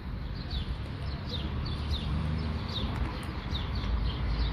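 A small bird chirping over and over, short high chirps that fall in pitch, a couple a second. Under it runs a low rumble of wind on the microphone.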